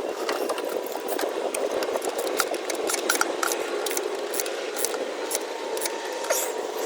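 Scattered metallic clicks and rattles of hand tools, a ratchet wrench tightening intake manifold bolts, over a steady hiss.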